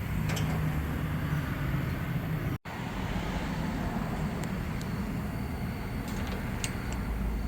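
Steady rumble of a vehicle on the move, engine and road noise, with a split-second dropout about two and a half seconds in and a couple of faint clicks.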